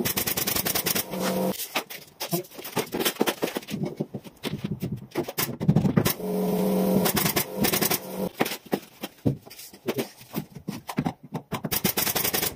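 Rapid series of sharp shots from a carpenter's nail gun fastening ceiling boards, firing in quick irregular runs.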